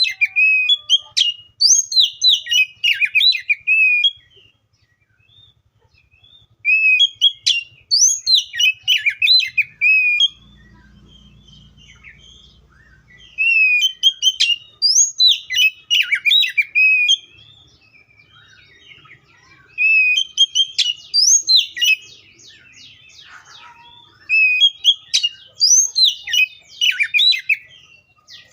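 Oriental magpie-robin singing loud phrases of varied sharp, sliding whistled notes, each phrase a few seconds long with short pauses between. About three quarters of the way through there is a fast, rattling run of repeated notes.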